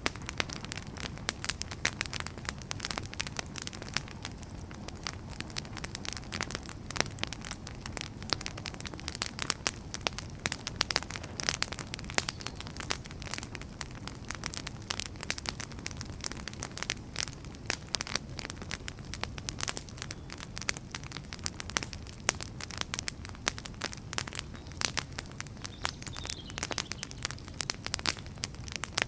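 Wood fire burning, with dense, irregular crackles and pops over a steady low rumble of the flames.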